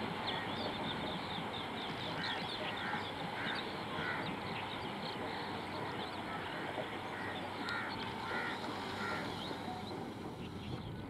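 Tail end of a long BOXNHL freight train rolling away along the track, giving a steady noise. Birds chirp and call repeatedly over it.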